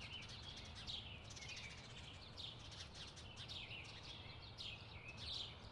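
Faint garden ambience: small birds chirping repeatedly, many short calls falling in pitch, over a low steady rumble.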